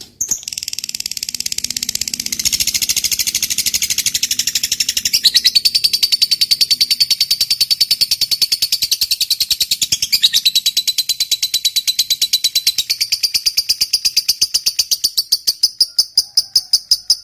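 Lovebird giving the long 'ngekek' call: a fast, unbroken high chattering trill of rapidly repeated notes, many each second. Its pitch shifts briefly about five and ten seconds in.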